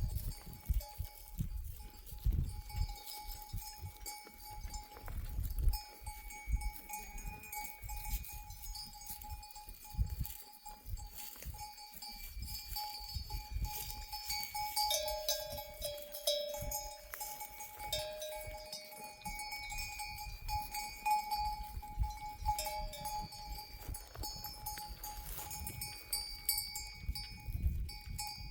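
Bells hung on a grazing flock of sheep, several bells at different pitches clanking and ringing on and off, with irregular low rumbles underneath.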